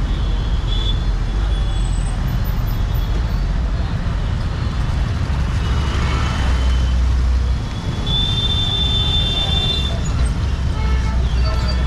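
Street traffic: a steady low rumble of engines, a vehicle passing about six seconds in, and a high steady tone for about two seconds near the eight-second mark, with voices in the background.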